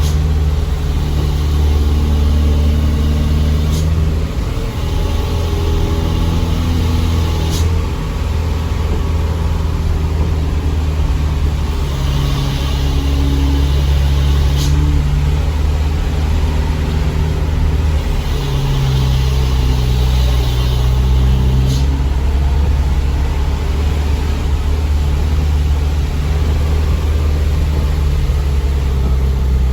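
Truck's diesel engine running under way, its low hum stepping up and down in pitch several times, with brief hissing patches in between.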